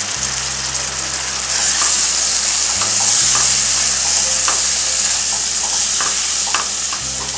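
Tomato puree sizzling in hot oil with the fried onion-spice masala in a non-stick pan, stirred with a spoon that scrapes and clicks against the pan. The sizzle grows louder about two seconds in as the puree is worked into the oil, the masala being fried down.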